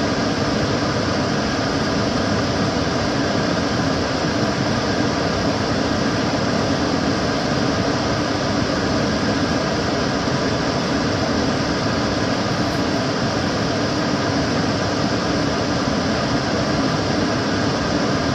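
Kitchen cooker hood extractor fan running steadily: a constant rush of air with a low motor hum and no change in speed.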